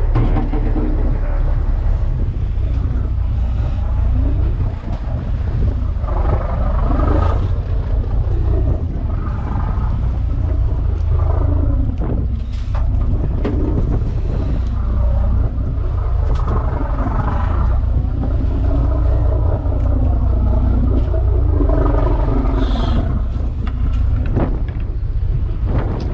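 Fishing boat's engine running steadily with a low drone, with wind noise on the microphone.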